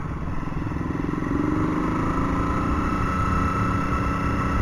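Motorcycle engine running steadily with a low pulsing rumble, its pitch rising slightly part way through.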